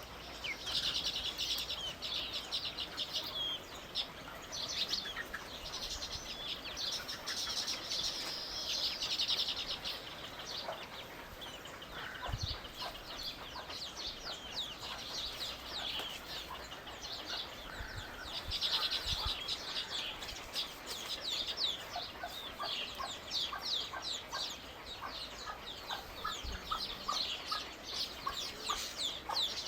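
A busy chorus of small birds chirping: dense runs of short, high notes, each sliding downward, coming in bursts one after another.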